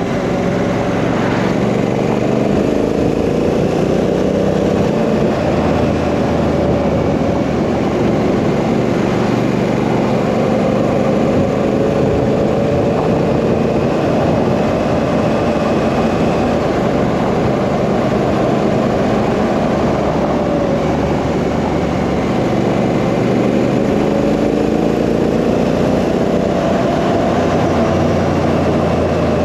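Honda Africa Twin CRF1000's parallel-twin engine running on the move, its note rising and falling several times, over steady wind noise on the microphone.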